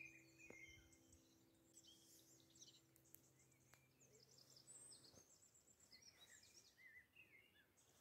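Faint birdsong from small birds: short twittering chirps scattered through, over a quiet garden background. A low steady hum fades out about five seconds in.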